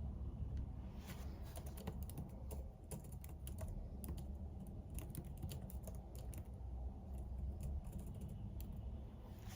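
Typing on a computer keyboard: a run of quick, irregular keystroke clicks starting about a second in, over a low steady background hum.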